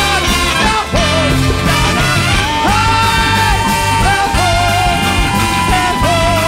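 A large free-jazz big band playing live, with drums and bass driving a steady rhythm under a wavering lead melody line and a held high tone.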